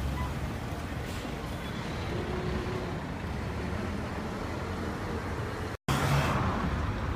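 Old Nissan car engine running steadily with a low rumble. A little before six seconds in, the sound cuts out for an instant and comes back louder.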